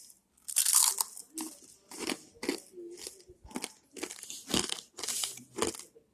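Crispy fried rice crackers crunching as they are bitten and chewed: about a dozen sharp, dry crunches at irregular spacing, roughly two a second.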